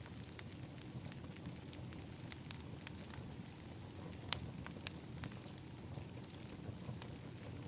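Wood fire in an outdoor fire pit crackling: irregular sharp pops over a steady low rumble, the loudest pop a little past the middle.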